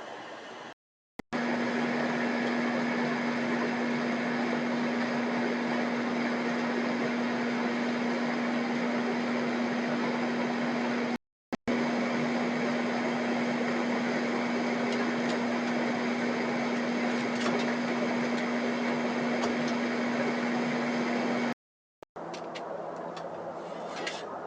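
Steady mechanical hum: one constant low tone over a loud even rush of noise, cut off twice by brief dead silences.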